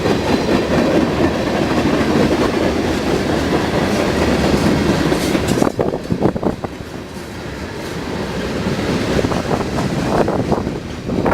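Freight train cars rolling past on the rails, with steady wheel clatter. A little over halfway through the noise drops sharply, with a few sharp knocks, then builds again toward the end.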